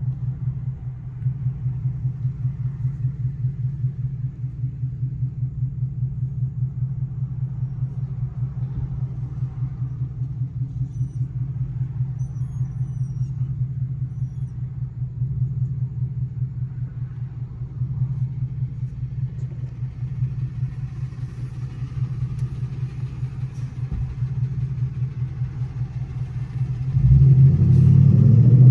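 Ford Mustang GT's V8 heard from inside the cabin: a steady low exhaust rumble while rolling slowly in traffic. Near the end the engine note rises and gets much louder as the car accelerates.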